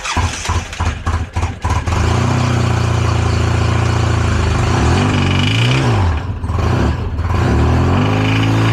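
Polaris RZR engine started with the crankcase filled with Lucas oil, after its rod bearing had seized to the crank, which the owner believes. It cranks and catches in the first couple of seconds, then runs steadily, with a brief rise and fall in engine speed about five and a half seconds in.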